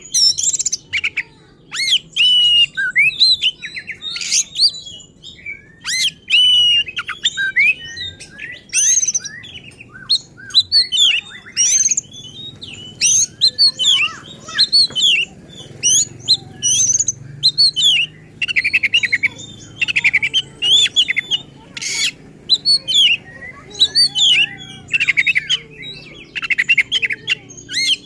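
Oriental magpie-robin (kacer) singing hard and nonstop: rapid, varied whistles, chirps and sliding notes in quick bursts with short gaps, mixed with a few harsh buzzy phrases, a repertoire full of mimicked calls (isian).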